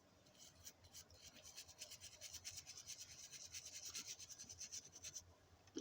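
Faint, quick back-and-forth scrubbing of small diecast model wheels, about five strokes a second, building up from about a second in and stopping abruptly near the end, followed by a small click.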